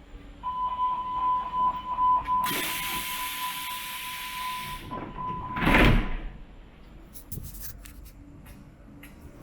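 Subway train at the platform: a steady high warning tone with a light ticking for several seconds, a hiss of air, then a loud whoosh about six seconds in as the sliding doors close.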